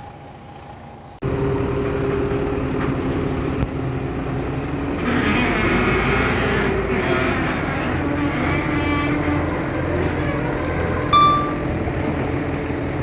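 Heavy diesel earthmoving machinery running steadily, starting abruptly about a second in. A short clank comes a third of the way through, and a brief high beep sounds near the end.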